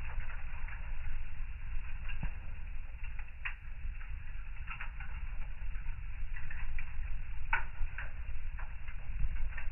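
Wood fire in a fireplace crackling: irregular pops and snaps over a low, steady rumble of the flames, with a couple of louder snaps a little past halfway.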